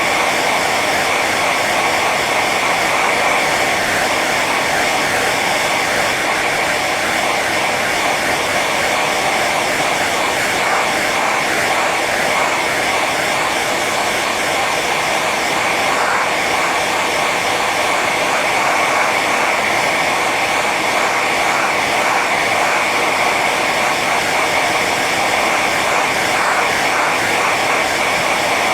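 Hair dryer running steadily on its high setting: a constant rush of blown air with a steady whine from the motor and fan.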